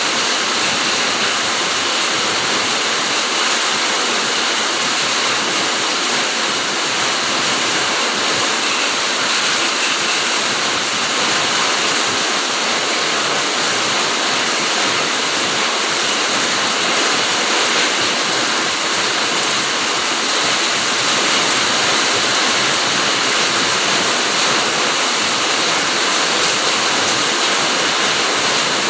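Steady heavy rain falling on a garden, a dense even hiss with no single drops or thunder standing out.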